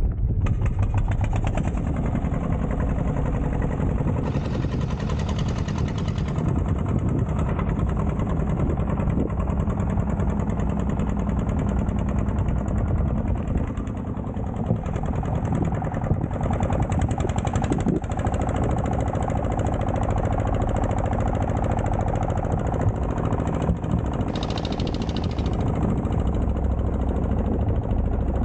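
Boat engine running steadily with a rapid, even knocking beat, unchanged in pitch and level throughout.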